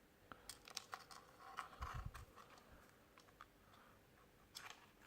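Faint scattered clicks and taps of small parts and tools being handled during a phone repair, with a soft low thud about two seconds in.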